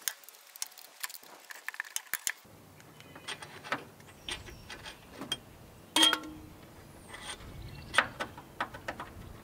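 Metal hand tools clinking and clicking against each other and against engine parts during an engine teardown, with a louder metallic clank about six seconds in that rings briefly.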